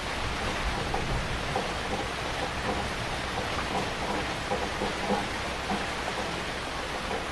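Heavy rain falling steadily, a dense even hiss with scattered louder drops spattering through it.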